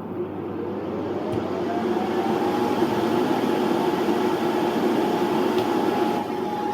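Electric fans spinning up as a heavy load comes on: a rushing hum that grows over the first couple of seconds, with a whine that rises in pitch and then holds steady while the fans run.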